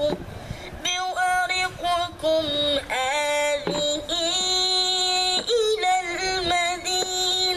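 A boy chanting Quran recitation in a melodic style, holding long notes and ornamenting them with quick pitch turns, with short pauses between phrases. The chanting stops just before the end.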